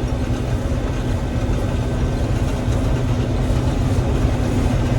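Gleaner M3 combine running steadily while harvesting wheat: a constant engine drone under an even machinery noise.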